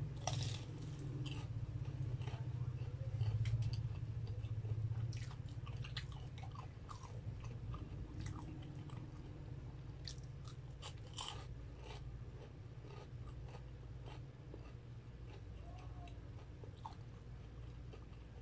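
Close-miked chewing and biting of a breadcrumb-coated fried corn dog, with irregular crisp crackles from the crust, busiest in the first half. A steady low hum runs underneath.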